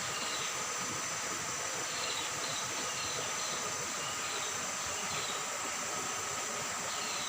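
River water babbling steadily over rocks, with a steady high insect drone and short bird chirps repeated every second or so.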